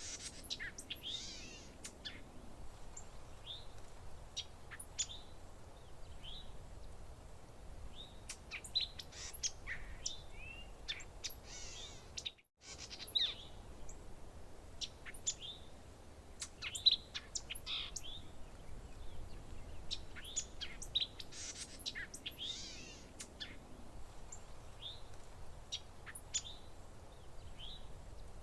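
Many small songbirds chirping and calling over one another: short bright notes, quick trills and sweeping whistles, over a faint steady background hiss. The sound drops out completely for a split second about twelve seconds in.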